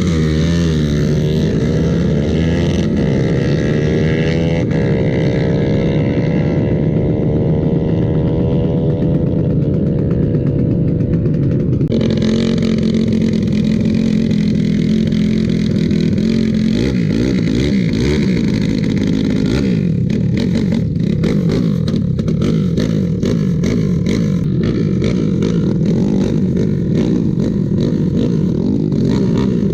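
Motorcycle engines running hard in a drag race. Over the first ten seconds the pitch climbs several times, as a bike accelerates through its gears. About twelve seconds in the sound changes abruptly to a busier, steady engine noise.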